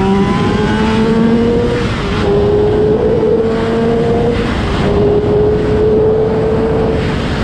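Honda CBR600RR's inline-four engine pulling at high revs under way, with heavy wind rush. The engine note holds fairly steady and breaks off briefly about two seconds in and again around four and a half seconds.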